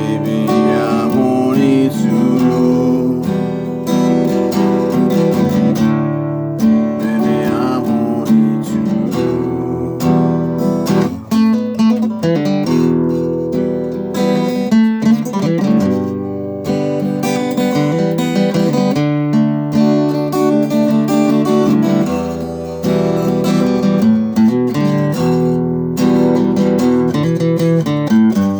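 Acoustic guitar being strummed and picked through a run of changing chords.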